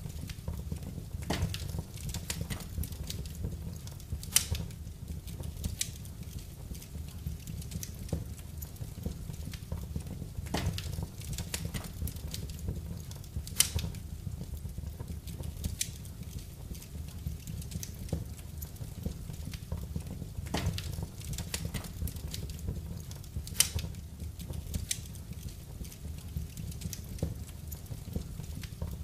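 Wood fire burning in a fireplace: irregular crackles and pops over a steady low rumble, with a few sharper pops about four seconds in, near the middle and toward the end.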